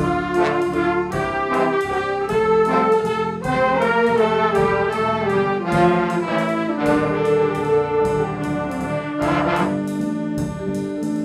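A school band's brass section playing a melody, with trumpets and trombones prominent.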